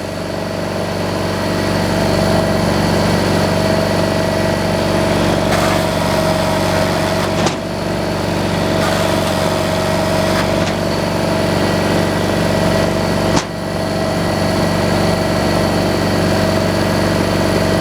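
Engine running steadily at constant speed with a steady whine, briefly dipping in level twice, about seven and a half and thirteen seconds in.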